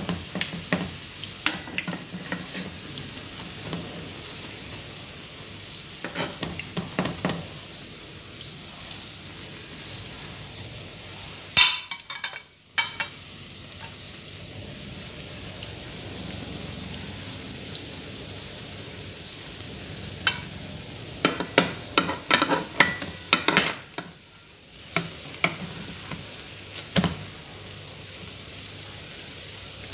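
Egg-dipped sandwiches frying in hot oil in a pan, with a steady sizzle. A metal slotted spoon clinks and scrapes against the pan in several bursts, loudest just before the middle and in a long run later on, as the slices are turned.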